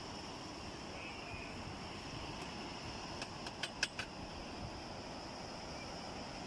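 Steady seaside wind and surf noise with a thin high hiss above it. A few sharp clicks come about three and a half seconds in.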